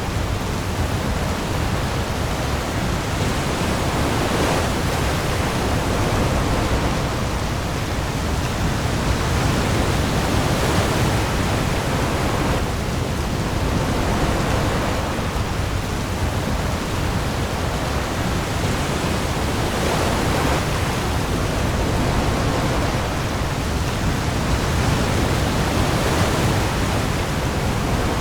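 Heavy rain pouring onto the sea with waves: a dense, steady hiss over a deep low rumble, swelling slightly every few seconds.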